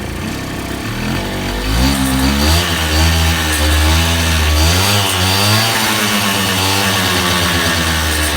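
Honda Dio AF27 scooter's two-stroke engine running and blipped up and down a few times before settling, with a ringing noise inside it that appeared after the cylinder-piston group, bearings and seals were replaced; the cause is unknown to the owner.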